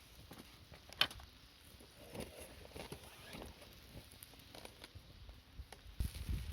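A sharp click about a second in, then scattered light taps and clicks, with a low rumble near the end.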